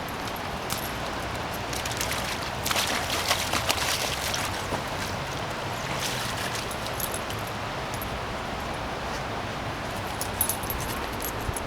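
A dog splashing through shallow floodwater, with a burst of denser splashing a few seconds in and scattered small splashes after it, over a steady outdoor hiss.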